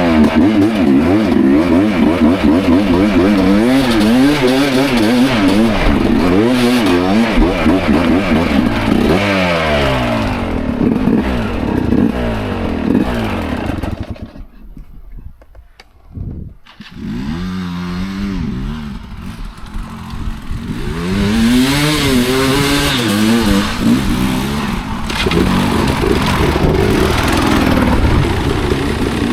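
Enduro motorcycle engine revving up and down over and over as it is ridden off-road. About halfway through the engine noise drops almost away for a couple of seconds, then picks up again.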